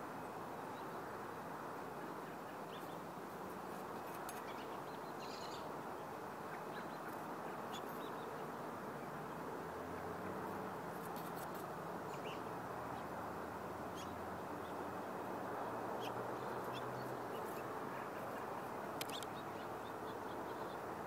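Small birds at a seed feeder: scattered short chirps and clicks over a steady outdoor hiss.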